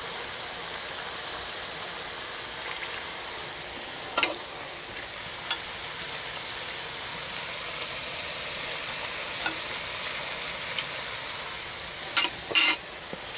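Tuna and beaten egg frying in a pan with a steady sizzle. A few light clinks of a metal fork against a pot as noodles are stirred, one about four seconds in and a few more near the end.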